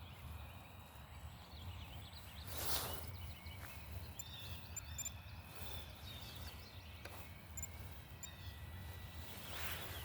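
Small birds chirping repeatedly over a low wind rumble on the microphone, with two brief rushes of noise, about three seconds in and near the end.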